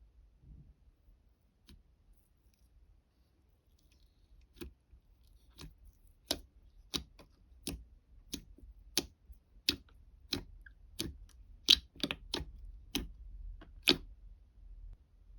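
A series of sharp, short clicks or snips, starting about four to five seconds in and coming roughly one every two-thirds of a second, ending shortly before the end.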